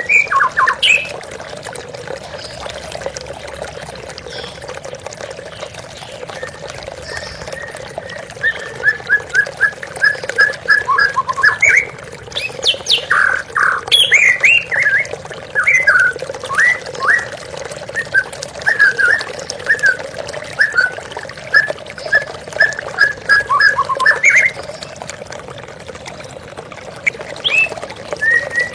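A white-rumped shama sings rapid runs of short, sharp chirping notes, with some quick upward sweeps, over the steady rush of flowing water. The bird is mostly quiet for the first several seconds, sings a long run from about a third of the way in until shortly before the end, then calls again near the end.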